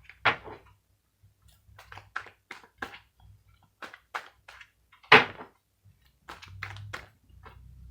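Tarot cards being handled and set down on a table: a string of light, irregular taps and clicks, with one louder knock about five seconds in.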